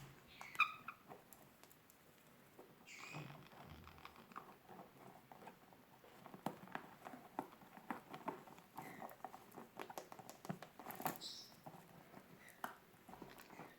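White-bellied caiques playing with a squeaky rubber duck: many light taps, clicks and scrabbling sounds, with a few short high squeaks about half a second in, around three seconds, near eleven seconds and shortly after.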